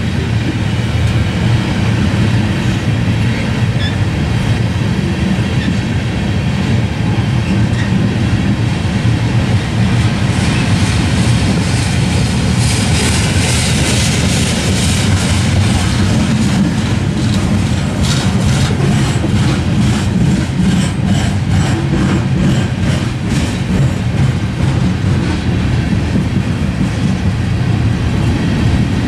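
Freight train rolling past close by: a steady low diesel rumble, with the cars' wheels clicking rhythmically over rail joints from about a third of the way in.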